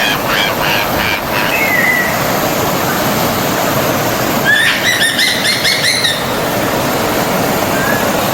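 Forest stream flowing steadily, with birds calling over it: a quick run of repeated chirps in the first second, a short slurred note just after, and a brief burst of chattering calls about halfway through.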